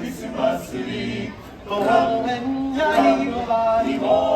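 A group of voices singing a Christmas song in harmony, in long held notes phrase by phrase.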